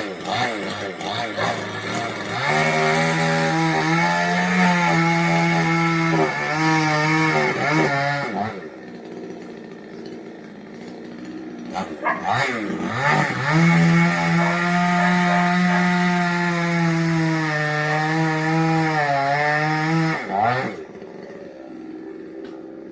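Chainsaw revved high and cutting wood in two long runs, about six and seven seconds each, the engine's pitch dipping and wavering under load. It drops to a quieter running between the runs and after the second.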